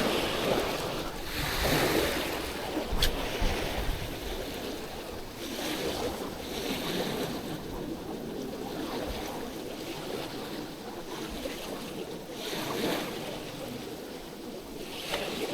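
Waves breaking and washing up the beach, swelling and fading in surges every few seconds, with strong wind rumbling on the microphone. A single sharp click about three seconds in.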